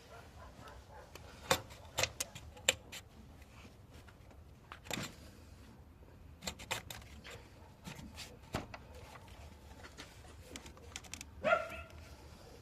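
A scattering of sharp clicks and knocks, like hard objects being handled and set down, followed near the end by a dog giving one short bark.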